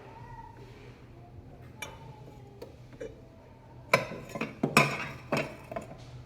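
Hard kitchenware knocked and clinked together as it is handled: a few light clicks, then a cluster of louder clatters about four to five and a half seconds in.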